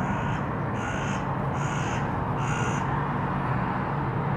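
A bird cawing four times, about one call every 0.8 seconds, which stops about three seconds in. Steady background noise runs underneath.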